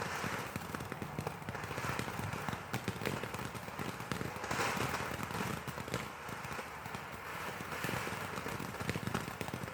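Backyard firework going off: dense, rapid crackling over a hiss that swells every couple of seconds.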